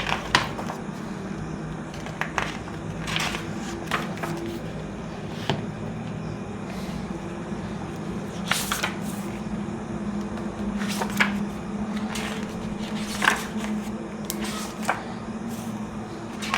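Pages of a small hardcover gift book being turned one after another, a short paper swish every second or two, over a steady low hum.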